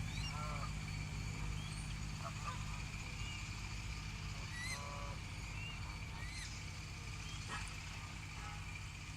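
Geese honking: a few short calls several seconds apart, over a steady low rumble.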